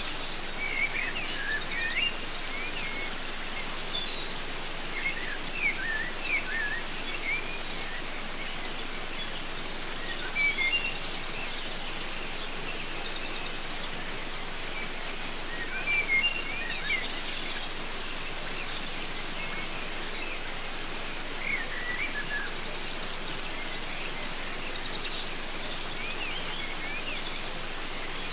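Steady rush of a waterfall, with birds calling over it in short bursts of quick chirps every few seconds.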